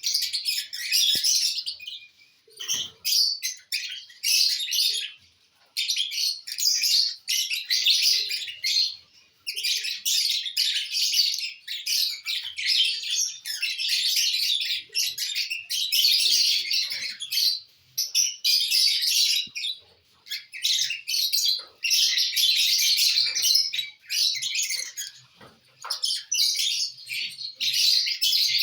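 Lovebirds chattering: dense, high-pitched chirping in bouts of a few seconds, broken by short pauses.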